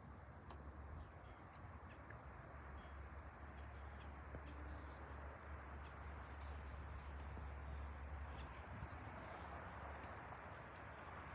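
Faint, distant rumble of an Airbus A380-842's four Rolls-Royce Trent 900 engines as the jet passes overhead, swelling slightly in the second half. Birds chirp now and then over it.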